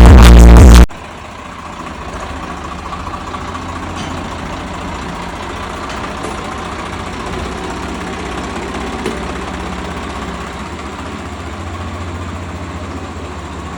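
Loud electronic music cuts off suddenly about a second in, giving way to a tractor engine running steadily.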